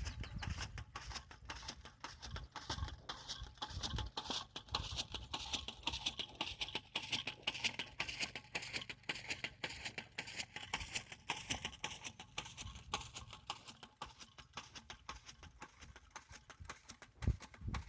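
Repeated clacking and knocking of a matraca, a hand jab planter, as it is worked into the soil to plant corn seed.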